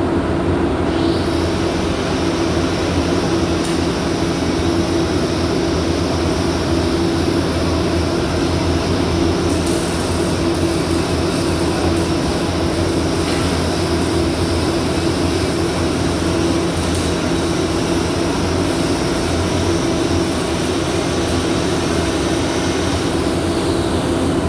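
A welding arc running with a steady hiss over the constant hum of welding equipment; the arc strikes about a second in and breaks off near the end, about twenty seconds later.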